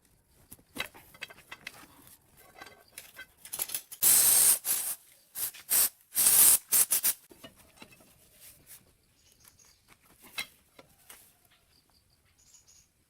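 Two loud hissing spray bursts of about a second each, the first a little over a third of the way in and the second about a second and a half later, among scattered small clicks and taps of work on metal parts.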